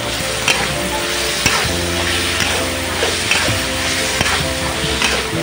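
Food sizzling and frying in a hot pan as it is stir-fried, with a spatula clinking against the pan several times. Soft background music with held notes plays underneath.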